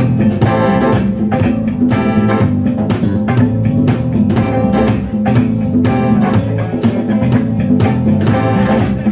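A band playing loud music with a steady, regular beat.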